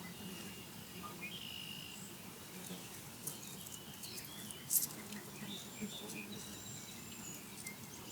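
Birds chirping outdoors: many short, high chirps and whistles overlapping, with one sharp click about five seconds in.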